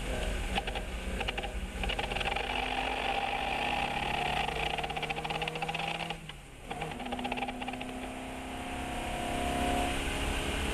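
Fiat 132 race car's engine pulling hard, its pitch climbing steadily. About six seconds in the sound dips briefly and the pitch drops, then it climbs again.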